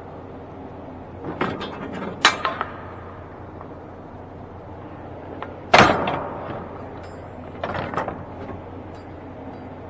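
Metal clanks and bangs from a truck door being worked shut that won't close, the loudest a sharp bang with a ringing tail about six seconds in. A steady low hum runs underneath.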